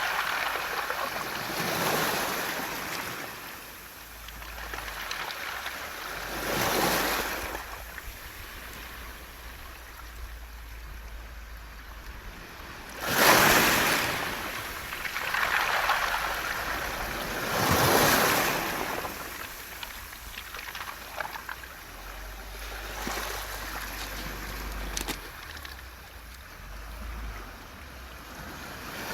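Waves breaking and washing over a beach of smooth round pebbles (mongdol), the stones rattling as the water runs back. The surges come every few seconds, the strongest about thirteen seconds in.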